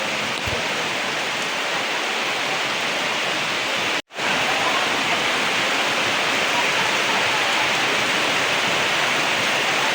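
Heavy rain pouring down as a dense, steady hiss. It breaks off to silence for an instant about four seconds in, then comes back slightly louder.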